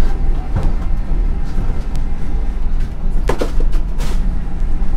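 Steady low rumble of the Vande Bharat Express electric multiple unit running along the line, heard inside the coach, with faint voices and a brief knock about four seconds in.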